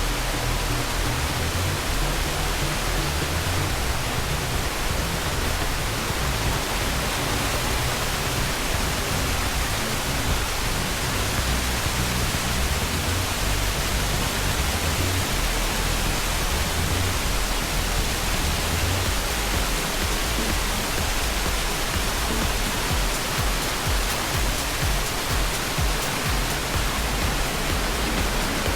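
Steady rush of the Yoro Falls waterfall, with background music underneath.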